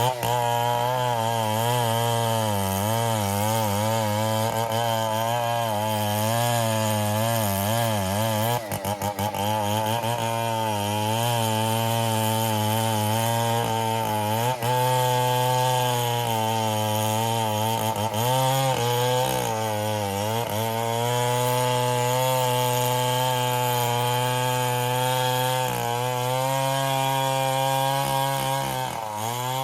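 Stihl MS 070 two-stroke chainsaw running at high revs while cutting ironwood, its pitch wavering up and down with the load. There is a brief dip about nine seconds in, and near the end the engine starts to drop off.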